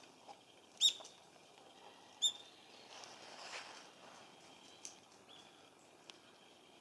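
Black-faced buntings giving short, sharp call notes, two loud ones about a second and a half apart and a fainter one later. Soft rustling of dry fallen leaves comes in between as the birds forage.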